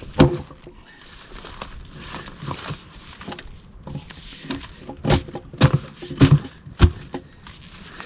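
Splitting axe chopping a black cherry round: one sharp strike just after the start, then four quick knocks about half a second apart near the end.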